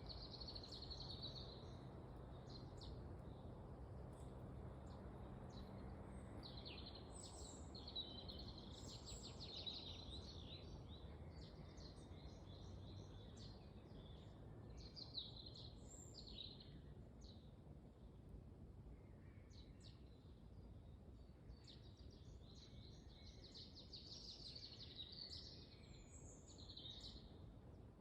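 Small forest birds chirping and trilling in many short, high calls, thinning for a few seconds past the middle, over a faint, steady low rush of wind.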